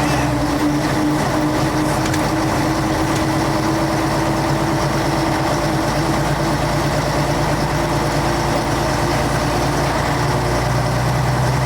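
1966 Scania Vabis BF56 bus engine idling steadily, a low even drone.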